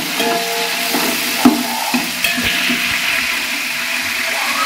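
Green chillies, mint leaves and whole spices sizzling in hot oil in a large aluminium pot, the tempering stage of the dish, with a steady sizzle. A metal ladle stirs and scrapes against the pot, giving a few sharp clinks, the loudest about a second and a half in.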